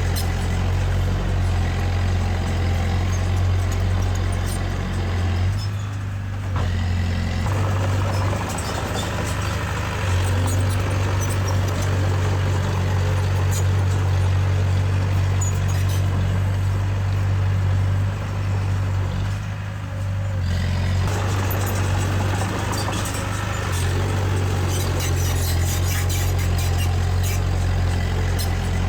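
Heavy-equipment diesel engine running steadily under work, easing off briefly twice, about six seconds in and again around twenty seconds.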